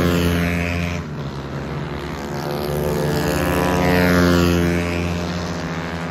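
Motorcycle engines revving on a race track, the pitch dropping about a second in and climbing again toward the fourth second as the bikes brake and accelerate.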